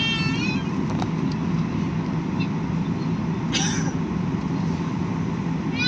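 Steady jet engine and cabin noise heard from inside an airliner as it moves on the ground, a low even rumble. A short hissing burst cuts in about three and a half seconds in.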